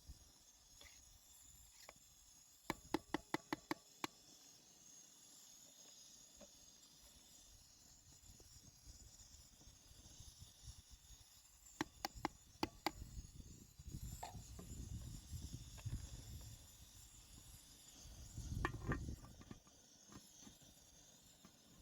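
Two quick runs of sharp knocks, about eight in the first and five in the second, followed later by low rumbling handling noise.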